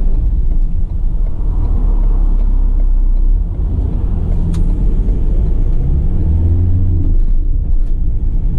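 2016 Ford Transit tipper's diesel engine, heard from inside the cab as the van pulls away and accelerates. The engine note rises in pitch, drops back about three seconds in, rises again, and drops once more near the end.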